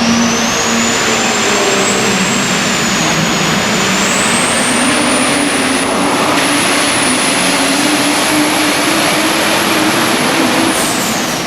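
Super stock diesel pickup truck at full throttle on a pull, the high turbo whine climbing over the first five seconds and holding above the engine's steady drone, then falling away sharply near the end as the throttle comes off.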